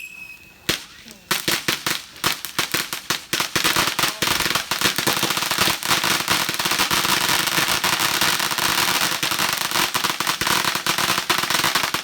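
A firework going off in a rapid run of sharp crackling pops: one pop under a second in, then a dense crackle of many pops a second.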